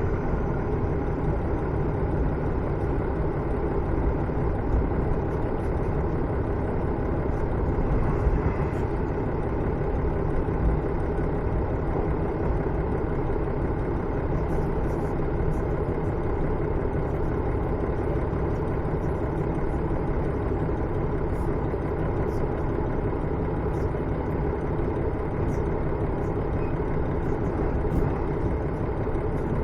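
Running noise inside a KiHa 110 series diesel railcar (KiHa 112-3) on the move: a steady drone from the underfloor diesel engine and the wheels on the rails. Faint light ticks come in about halfway through.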